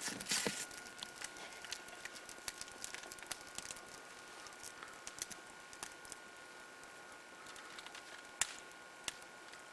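Campfire crackling faintly: scattered sharp pops and clicks over a steady hiss, with a short louder rustle about half a second in.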